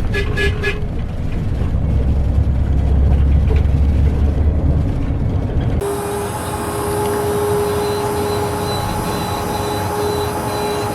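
Electric blender motor running, a loud low churning for about six seconds. It then switches abruptly to a higher, steadier whine as it speeds up.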